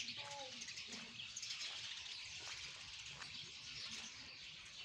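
Small birds chirping and twittering in a dense, continuous chatter.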